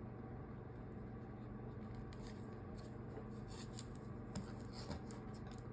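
Faint rustling and light clicks of cloth being handled with a fabric-turning tube, scattered through the middle and latter part, over a steady low room hum.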